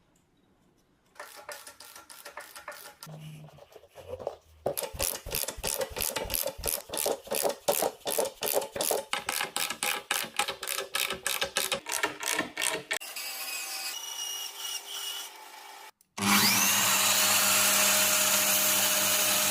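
Woodworking sounds: rapid back-and-forth rubbing or scraping strokes on wood, about three a second. About sixteen seconds in, after a sudden cut, a power tool's motor spins up with a rising whine and runs steadily and loudly.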